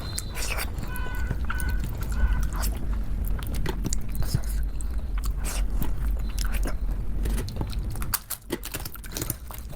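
Close-miked eating of khichdi with ghee: wet chewing, lip smacks and many small mouth clicks over a steady low hum.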